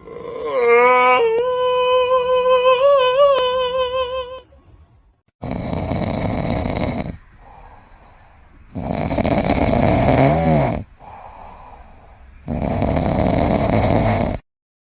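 A wavering, held pitched call for about four seconds, then a pet snoring loudly: three long noisy in-breaths a few seconds apart, each followed by a quieter out-breath.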